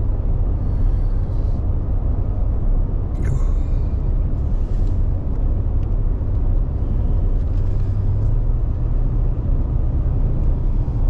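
Four-wheel-drive pickup truck driving on the road, heard from inside the cab: a steady rumble of engine and tyres.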